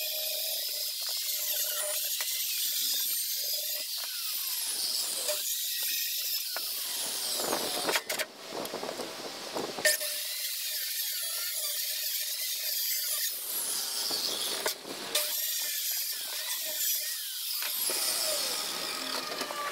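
Cordless power tool running in long stretches, mostly high-pitched, stopping briefly twice.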